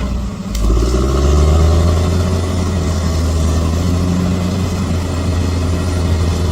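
Bulldozer's diesel engine running. It dips briefly just after the start, its pitch rises over the next second as it revs up, and then it runs steadily.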